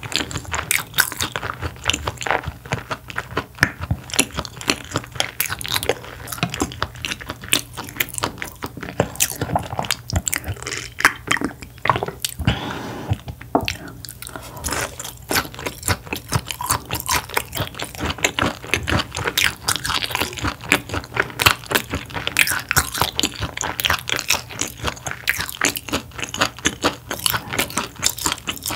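Close-miked chewing and biting of sea bass, a dense run of sharp mouth and teeth clicks with no pause longer than a moment.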